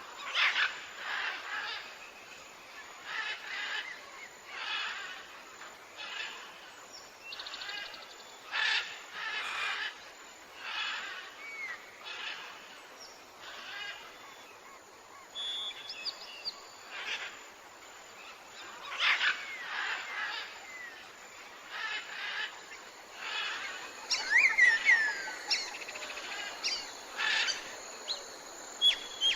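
Tropical birds calling: short calls repeated about once a second, with a louder run of whistled notes sliding down in pitch near the end.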